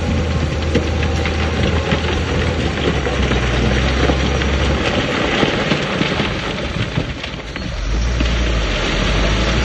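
Heavy diesel earthmoving machinery running: a low engine drone whose pitch shifts a couple of times, under a dense crackling rattle. The level dips briefly about three-quarters of the way through.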